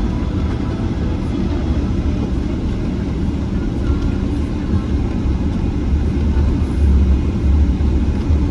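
Cabin noise inside a Boeing 777-300ER: a steady low rumble from the engines and airflow, with a hiss above it, growing louder from about six seconds in.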